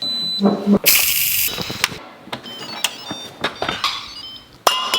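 Rice cooker being shut and set going: a lid knock and clicks, a short loud hiss about a second in, then a run of short electronic beeps and clicks.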